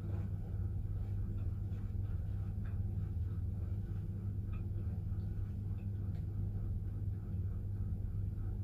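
A steady low hum fills the background, with a few faint, soft chewing and mouth sounds from someone eating a biscuit.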